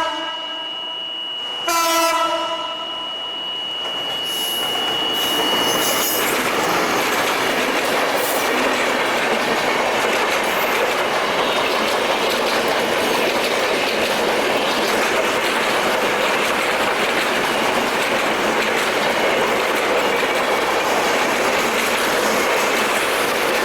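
An EMD GT42ACL diesel locomotive's horn gives one short blast about two seconds in, over a steady high-pitched tone that stops about six seconds in. Then the train's coaches roll past, their wheels clattering on the rails in a steady, loud rush.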